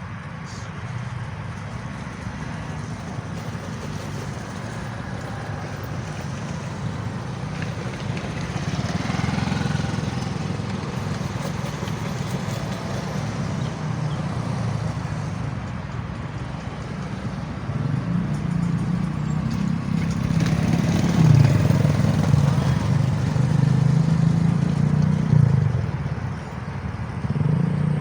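A train rumbling along the rails, growing louder and loudest in the second half, then easing near the end.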